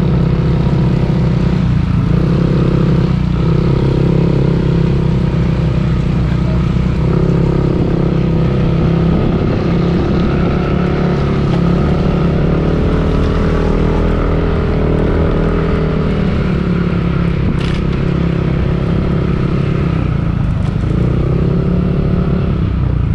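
Motorcycle engine running while riding, its pitch rising and falling with the throttle, with a steady rush of wind and road noise.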